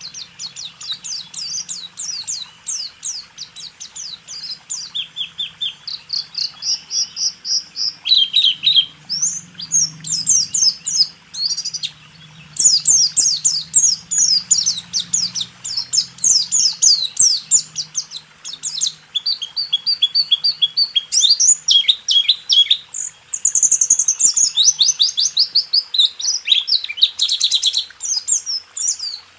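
White-eye (pleci) singing a fast rolling song: long runs of rapid, high, sweeping chirps, many a second, broken by a couple of brief pauses.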